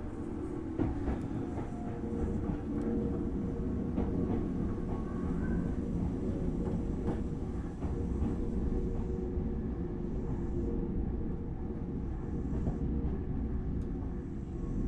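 Interior running noise of a Tobu Railway Series 6050 electric train, heard inside its motor car: a steady low rumble of wheels on rail with a faint steady hum, broken by a few sharp clicks.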